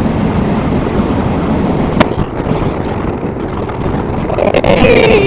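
Steady wind and road rush on a riding motorcyclist's helmet microphone, with one sharp click about two seconds in. Near the end the Zero DSR/X's electric motor whine falls in pitch as the bike slows under regenerative braking.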